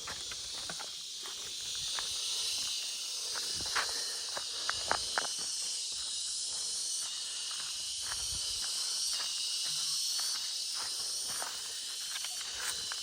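A steady, high-pitched chorus of insects, with footsteps and scattered crunches and clicks on the ground underfoot, a few sharper ones about four to five seconds in.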